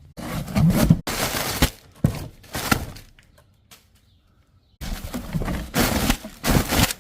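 A package being opened by hand: cardboard and paper packing rustling and tearing in bursts, with a couple of sharp knocks. There is a short lull around the middle.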